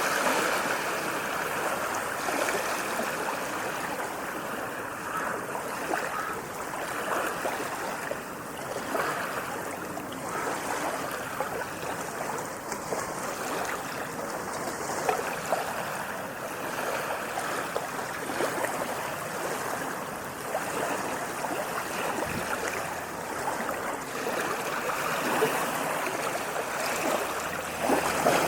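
Water washing and splashing continuously, full of small splashes and gurgles, with only slight swells in level. These are small waves lapping at the shore.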